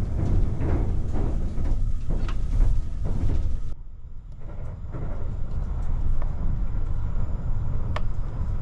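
Low, steady rumble of a Kintetsu Hinotori limited express train running, heard inside the passenger cabin, with a few light clicks. The sound dips briefly about four seconds in.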